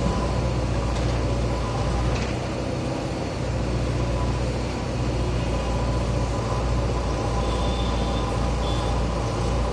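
JCB earthmover's diesel engine running steadily with a low, even hum, easing slightly for about a second near the start.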